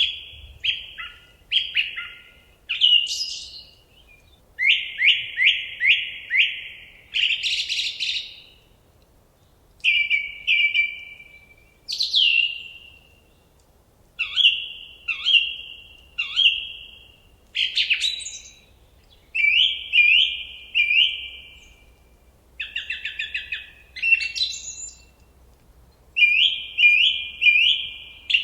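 A songbird singing a run of short phrases, each a quick series of repeated chirping notes, with brief pauses between phrases.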